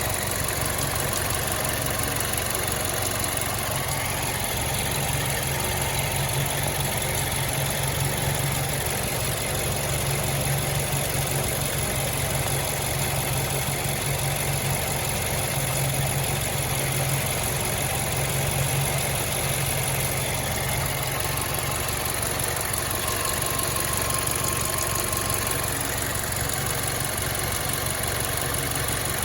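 2011 Mazdaspeed3's 2.3-litre turbocharged four-cylinder engine idling steadily with a ticking from the passenger side of the engine. The owner suspects a worn accessory-belt idler pulley that moves side to side while running.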